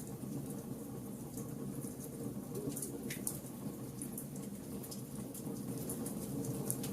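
Wood fire burning with a steady low rush of flames and irregular small crackles and pops from the burning wood, one sharper pop about three seconds in.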